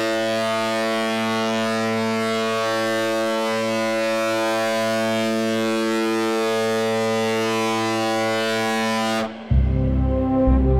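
Ship's horn sounding one long, steady low blast that cuts off about nine seconds in, followed at once by music.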